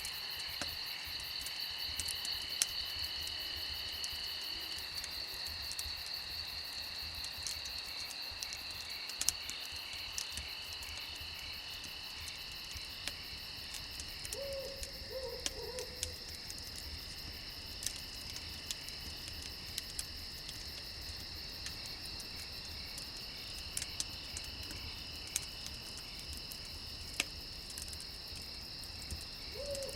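Crickets chirping in a steady, high-pitched chorus, with scattered sharp crackles of a campfire. A low hooting call sounds about halfway through and again at the very end.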